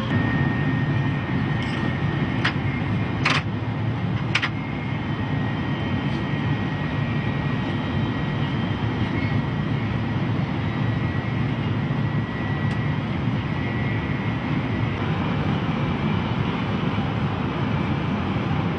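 500 Series Shinkansen running at about 300 km/h, heard inside the driver's cab: a steady low rumble and rush of air. A thin steady high whine fades out about three quarters of the way through, and there are three short clicks near the start.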